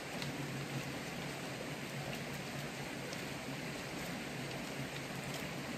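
Steady, even hiss of outdoor background noise with scattered faint ticks and a low hum underneath.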